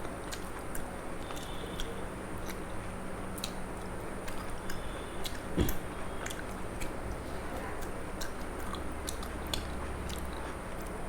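Close-up chewing and mouth clicks of a person eating rice with Malabar spinach (pui shak) curry. There is a dull thump about halfway through.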